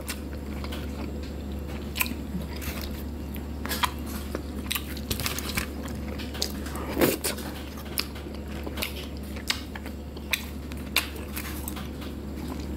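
A person chewing and eating roast fish and bammy close to the microphone, with scattered small clicks over a steady low hum.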